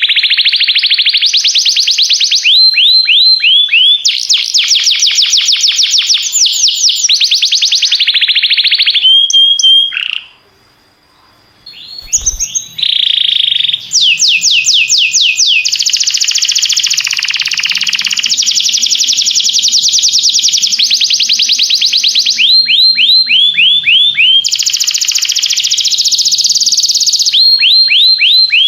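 Domestic canary singing a long song of fast trills: rapid runs of repeated high notes, the pattern changing every second or two. The song breaks off for about two seconds around ten seconds in, a soft click sounds, and then it resumes.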